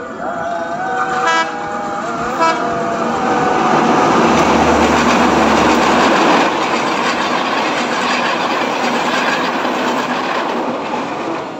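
Passenger train passing close by: two short horn toots, about one and two and a half seconds in, as it approaches, then the running noise of the train builds, is loudest in the middle as it passes, and fades toward the end.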